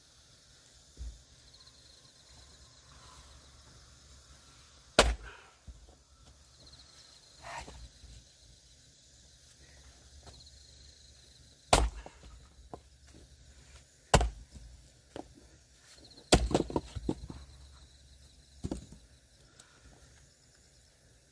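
Axe chopping firewood: five sharp, separate strikes several seconds apart, the fourth followed by a rattle of smaller knocks as pieces fall.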